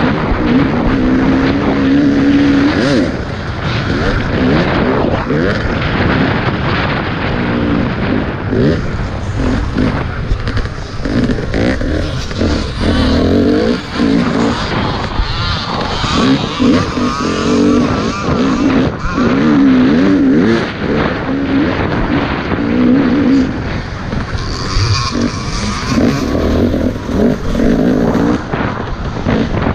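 Off-road dirt bike engine revving up and down again and again as the throttle is opened and closed over rough terrain, with knocks and rattles from the ride.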